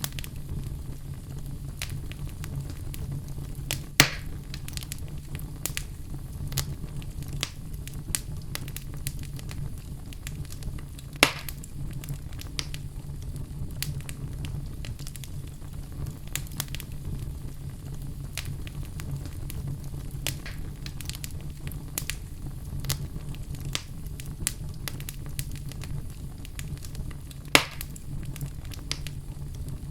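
Wood fire burning in a fireplace, crackling steadily with many small snaps over a low rumble. Three louder pops stand out: about four seconds in, about eleven seconds in, and near the end.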